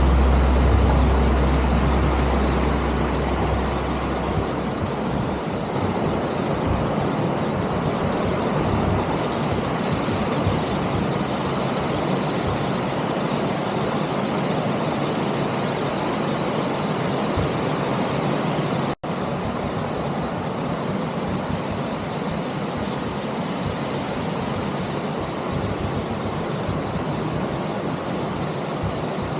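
Mountain bike ridden along a dirt woodland trail, heard through an action camera's microphone: a steady noise of tyres rolling and wind on the mic, with a heavier low rumble for the first few seconds. The sound cuts out for an instant about two-thirds of the way through.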